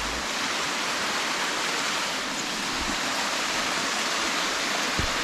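Waterfall's rushing water: a steady, even hiss of falling water.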